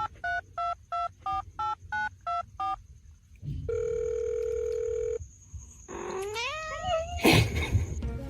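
Telephone keypad tones dialing about ten digits in quick succession, each a short two-note beep, followed by a steady tone lasting about a second and a half. Near the end comes a rising, wavering call, then a short loud noisy burst.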